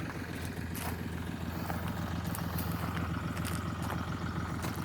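Car engine idling steadily with an even low hum, a few faint light clicks over it.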